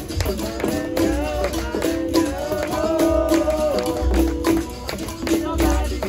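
Live capoeira roda music: a berimbau repeats its twanging pattern over pandeiro jingles and deep atabaque drum beats, with a voice singing over them.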